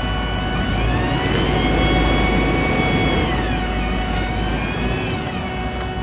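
Heavy road-paving machinery running with a steady hum, while an engine revs up, holds, and drops back, then revs up and down again briefly near the end.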